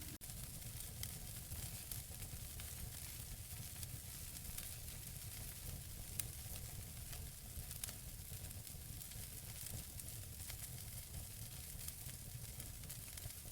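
Wood fire burning in a fireplace, with a steady hiss and many small crackles and pops from the burning logs, and one sharper pop about six seconds in, over a low steady rumble.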